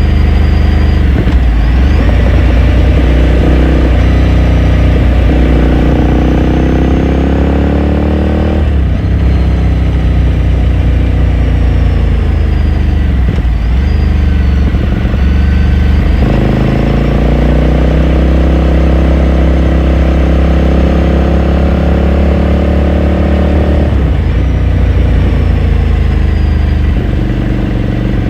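Exhaust of a Ducati Scrambler Sixty2's 399 cc air-cooled L-twin, heard onboard while riding. The engine note climbs under throttle, drops sharply about nine seconds in, then climbs again from about sixteen seconds until another drop a few seconds before the end.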